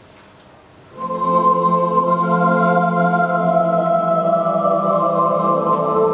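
Live instrumental music: a keyboard instrument with an organ sound begins about a second in with a held chord of steady notes that sustains and shifts slightly.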